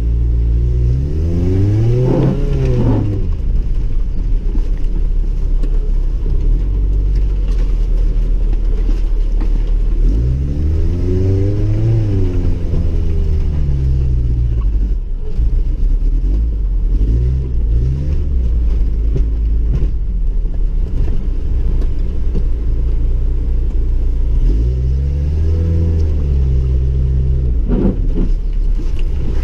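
1998 Chevrolet Tracker's engine heard from inside the cabin, with a steady low rumble as the vehicle drives. The engine revs up and falls back about five times: around 2 seconds in, around 12 seconds, briefly around 17 seconds, around 26 seconds, and again near the end.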